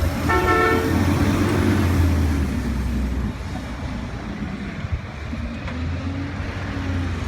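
Sterling Condor garbage truck's diesel engine running with a steady low drone, a short horn toot sounding about half a second in. The engine sound drops a little after about three seconds.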